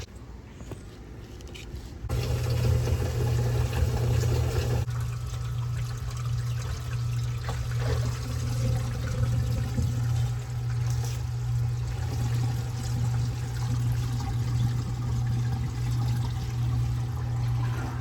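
Water running hard and steadily through plumbing, starting abruptly about two seconds in, with a strong low steady hum under the rush.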